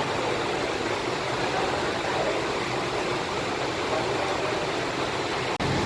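Steady hiss of heavy rain mixed with the running of buses, with no clear engine note standing out; it drops out for an instant near the end.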